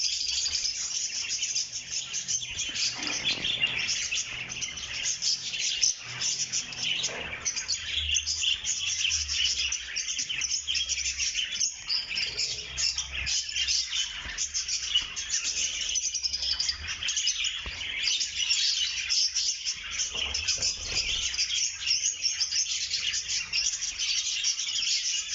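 A flock of lovebirds chattering: a dense, unbroken mass of many overlapping high chirps and squeaks.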